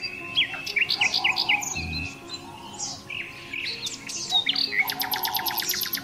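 Songbirds chirping in quick, short falling notes, with a fast even trill of about ten notes a second near the end, over soft background music.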